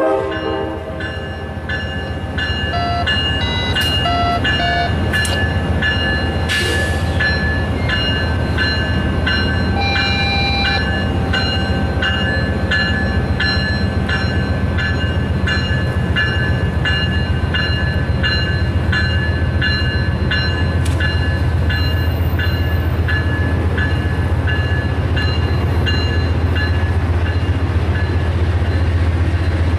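Amtrak passenger train departing. The locomotive's bell rings over and over at a steady pace over the low drone of its diesel engine.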